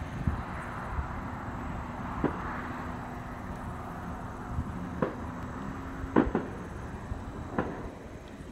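Fireworks going off, heard as about half a dozen short, sharp bangs at irregular intervals, the loudest about six seconds in, over a steady background hum of outdoor noise.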